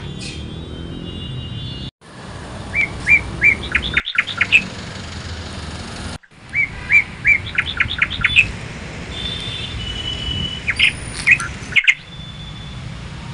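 Birds chirping outdoors in repeated phrases of quick, high notes, with a few held whistles near the middle, over a steady background hum. The sound drops out briefly a few times where the footage cuts.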